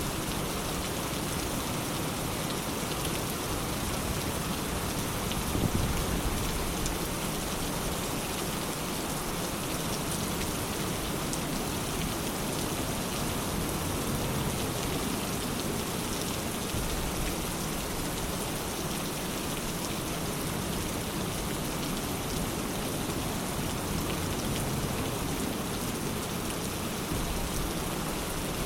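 Steady rain falling on a surface, with many fine drop ticks. About six seconds in there is a brief low rumble, likely distant thunder.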